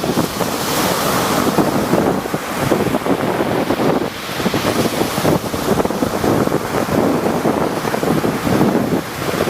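Rough sea surf: waves breaking and washing in a continuous rush, surging every few seconds, with wind buffeting the microphone.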